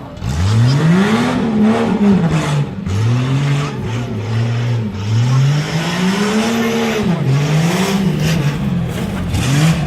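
Tough truck's engine revving hard on a dirt obstacle course, its pitch climbing and falling off again and again, about every second or two, with short stretches held at a steady pitch between the surges.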